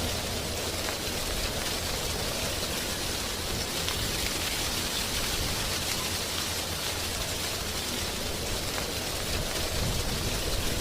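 Wind blowing through tree leaves: a steady, even rustling hiss with a low rumble beneath, swelling slightly near the end.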